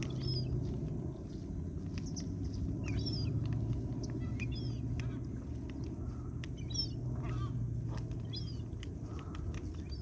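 Small birds chirping in short high calls, roughly one a second, over a steady low rumble.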